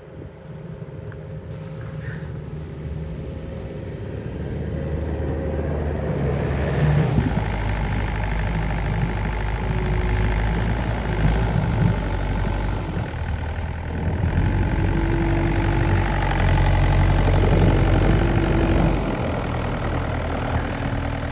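A motor vehicle engine running. It grows louder over the first several seconds, then holds steady with small changes in its note, and eases off slightly near the end.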